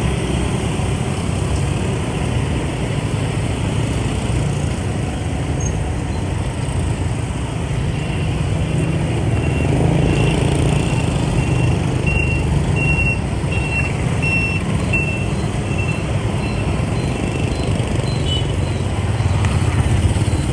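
Motorbike engine and dense surrounding motorbike traffic, a steady low rumble. In the middle, a high electronic beep repeats about one and a half times a second for roughly ten seconds.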